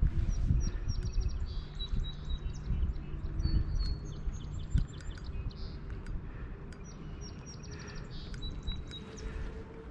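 Small birds chirping, with short rapid trills and a few clear whistled notes, over a low rumble. A few dull knocks come in the first half.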